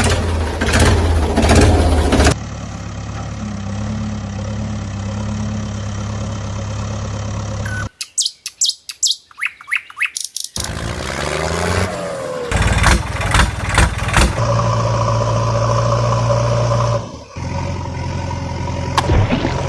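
Cartoon sound effects: a vehicle engine running steadily, broken about eight seconds in by a couple of seconds of quick bird chirps, then engine sounds again with a few knocks.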